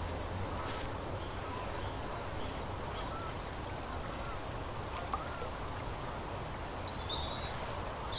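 Birds calling over a steady background hiss: a few faint short calls through the middle, and high, brief chirps near the end.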